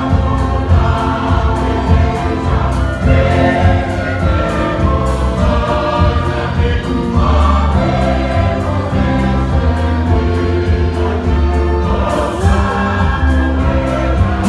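Large church choir singing a Portuguese gospel hymn with band or orchestral accompaniment, steady bass and a regular beat.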